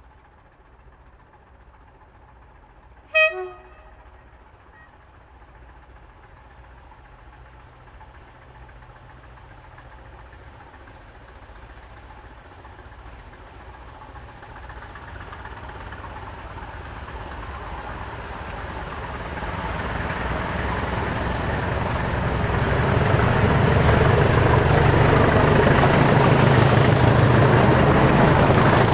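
Diesel locomotive sounding one short horn blast about three seconds in, then approaching with its engine noise growing steadily louder. A high whine rises in pitch as it draws near.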